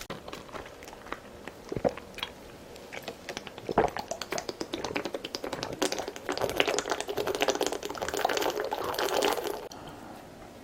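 Close-miked eating: scattered sharp clicks and bites, then from about five seconds in a dense run of wet mouth noises that cuts off suddenly near the end.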